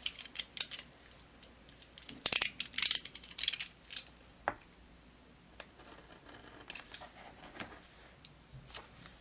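Scissors snipping paper in quick runs of sharp cuts, loudest a couple of seconds in. Then quieter paper rustling and a few light taps on the desk.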